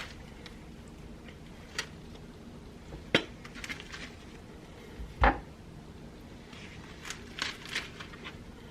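Scattered knocks and clinks of raw bone-in chicken thighs being set into a baking pan, a few separate strikes with the loudest, a dull thud, about five seconds in.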